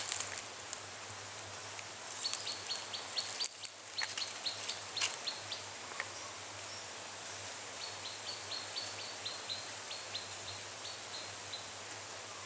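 A bird calling in runs of short, high notes, about four a second, repeated in several bursts over outdoor background hiss. Some rustling early on and a sharp click about three and a half seconds in.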